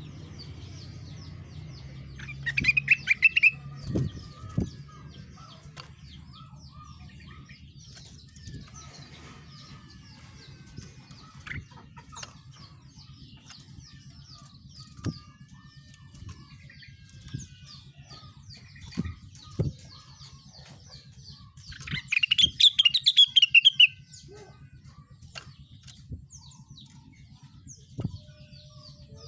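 Rengganis songbird singing in loud, rapid trilled bursts, one about two and a half seconds in and a longer one near twenty-two seconds in, with faint chirps between. A few sharp knocks over a steady low hum.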